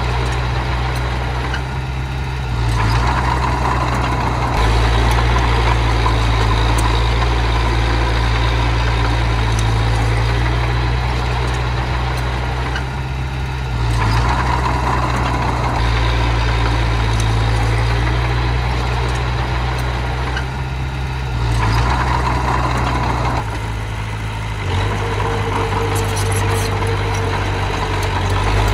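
Diesel engine of earthmoving machinery running loud and steady, its note changing briefly a few times as the load shifts.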